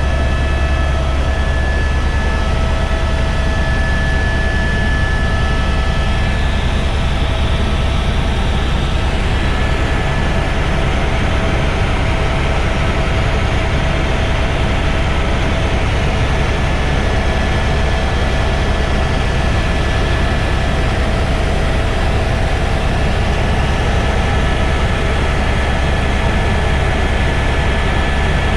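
Helicopter in flight: a steady, loud, low rotor and engine drone, with a few steady whining tones above it.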